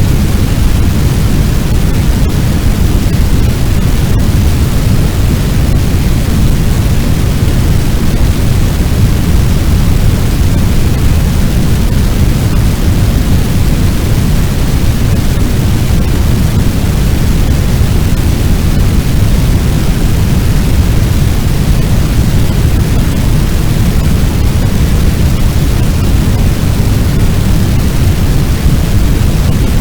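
Fire sound effect: a loud, unbroken noise, strongest in the bass, meant to sound like a large blaze.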